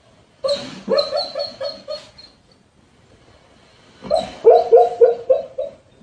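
A dog vocalizing in two quick runs of short, pitched yips, several a second; the second run is louder.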